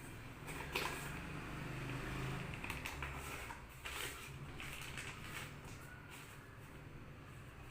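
Light handling noises: a few soft knocks and clicks with rustling as plastic parts and packaging are handled, over a faint low steady hum.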